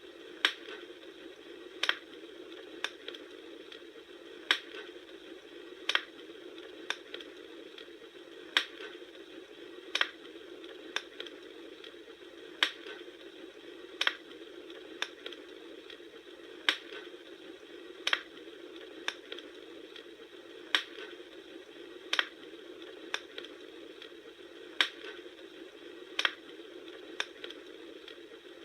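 Wood campfire crackling: sharp pops about once a second over a steady low hiss, in a pattern that repeats about every four seconds.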